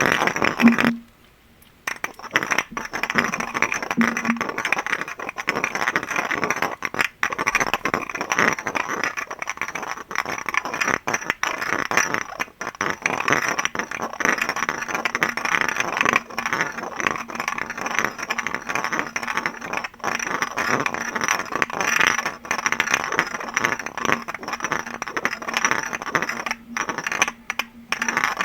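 Fingernails tapping and scratching rapidly on glass objects in a dense, continuous patter, with a brief pause about a second in.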